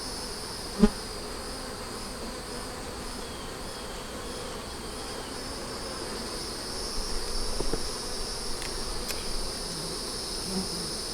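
Honey bees buzzing around an open hive, over a steady high-pitched insect drone. There is a single sharp knock about a second in and a few lighter knocks later, as frames and the hive tool are handled.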